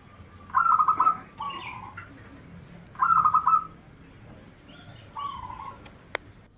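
Zebra doves (perkutut) cooing: two loud phrases of rapid stuttering coos about two and a half seconds apart, with softer, lower coo notes in between. A single sharp click near the end.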